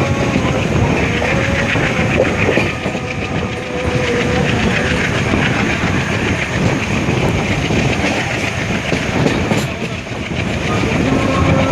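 Passenger train running at speed, with a dense rumble and the clatter of wheels on rail joints.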